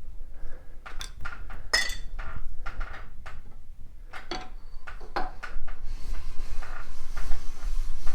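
Barrel lap worked in and out of a Harley-Davidson K-Model engine's main bearing race with lapping compound: a run of metallic clinks and scrapes, turning to a steady hiss about six seconds in.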